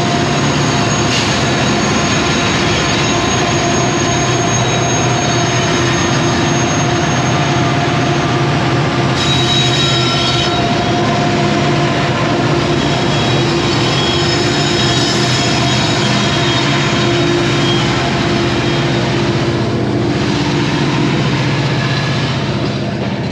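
Long coal train's freight cars rolling past close by: a steady rumble of steel wheels on rail, with thin high wheel squeal held over it.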